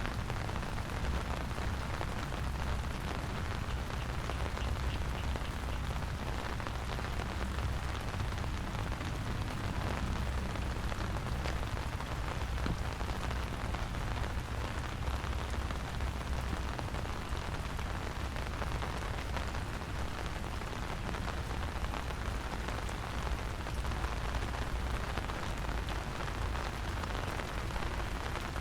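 Steady rain falling and pattering on the surroundings, an even hiss with no breaks, over a constant low rumble.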